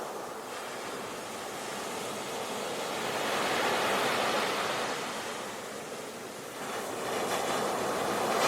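Ocean waves breaking on a beach: a steady wash of surf that swells about four seconds in, eases, then builds again near the end as the next wave comes in.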